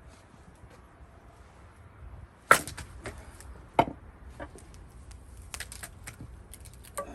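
Gränsfors Bruk axe striking cherry wood being split: one sharp, loud chop about two and a half seconds in and a second hit just over a second later. Lighter clicks and knocks of wood follow.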